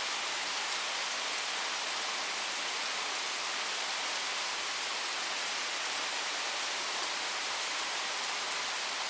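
Heavy thunderstorm rain falling steadily, an even hiss of the downpour with no thunder.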